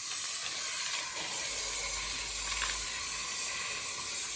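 A steady high hiss that runs on evenly, with no pauses or strokes.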